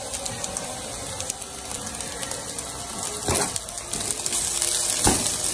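Shredded chicken sizzling in hot oil in a kadhai as it is stirred with a slotted spoon, with a couple of louder scrapes of the spoon against the pan, about three and five seconds in.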